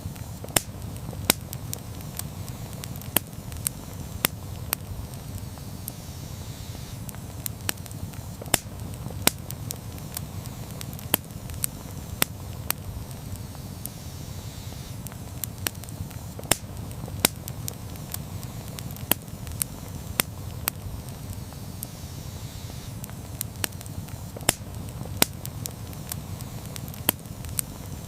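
Campfire burning, with a steady low rumble and sharp crackles and pops at irregular intervals, several a second.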